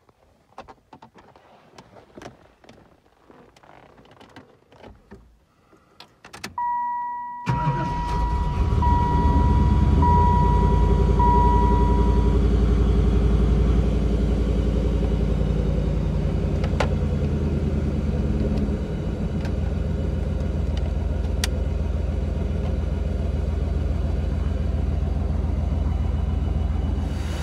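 Scattered clicks and small rattles, then the 1995 Camaro Z28's 5.7-litre LT1 V8 starts about seven seconds in and runs at a steady idle, easing down a little near nineteen seconds. The dash warning chime beeps in pulses over the start. The owner says this engine has a miss from sitting a while.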